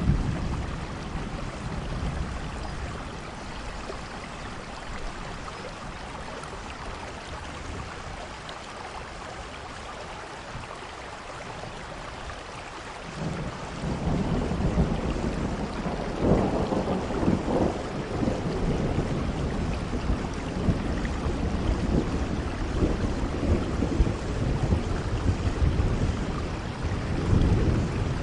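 Steady rainfall. About halfway through, a low rumble of thunder comes in and rolls on in swells, louder than the rain.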